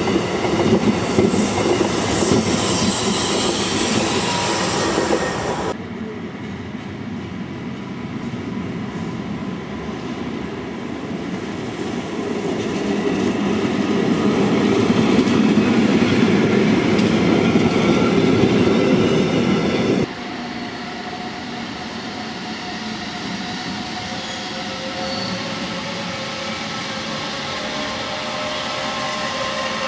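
Electric passenger trains moving along the station tracks: the rumble and clatter of steel wheels on rails, with high wheel squeal in the first few seconds. The sound cuts off abruptly about six seconds in and again about twenty seconds in. The middle rumble swells to its loudest just before the second cut, and the last part is a steadier, quieter run with a faint hum.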